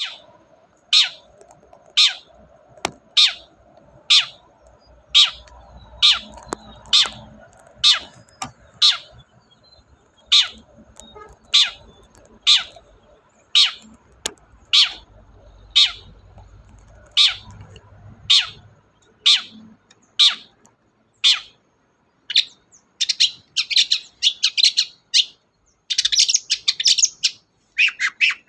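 Long-tailed shrike (cendet) calling loudly, one sharp note about every second, each note a quick falling sweep. About three-quarters of the way through it breaks into fast, chattering runs of rapid notes.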